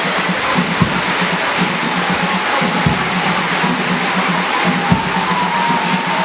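Heavy rain pouring down over parade drumming: a deep drum stroke about every two seconds over a steady rhythm of lighter drum strokes.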